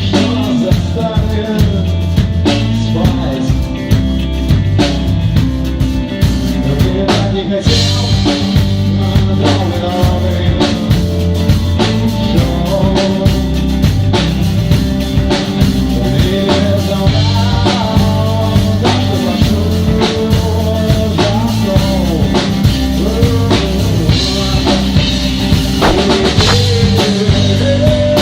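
A band playing loud music, with a drum kit hitting throughout over a steady bass line and a melody line that bends in pitch.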